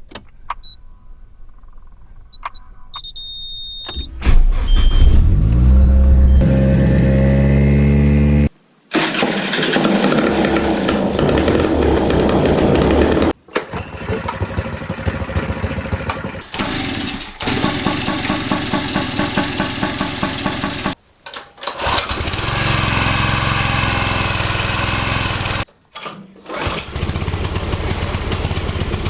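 Farm-machinery engines firing up for the first time after repair, one clip after another. About four seconds in, the first engine catches and speeds up with a rising pitch. After abrupt cuts, other engines are heard running.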